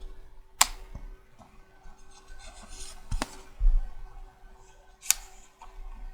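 Magnetic checkers pieces handled close up: three sharp clicks a couple of seconds apart, with soft rubbing between them and a low thump about midway.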